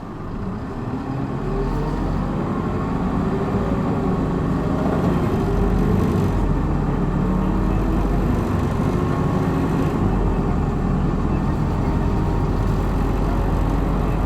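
Hino Blue Ribbon city bus's diesel engine heard from inside the cabin, pulling hard in power mode: the engine note rises and grows louder over the first couple of seconds as the bus accelerates, then holds at a steady high drone.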